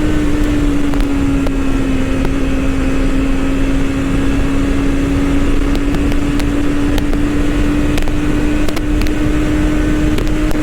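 BMW S1000RR's inline-four engine running at a steady pitch under way, easing slightly lower a second or two in and climbing back a few seconds later, with wind rushing over the microphone.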